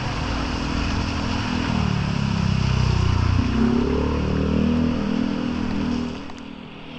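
A small motor engine passes close, its pitch climbing as it revs up, then fading away about six seconds in.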